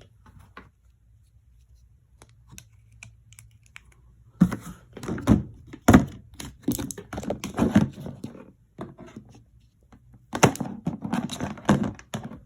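Clattering knocks and clicks from objects being handled, in two bursts with a quiet pause between them and a faint low hum underneath.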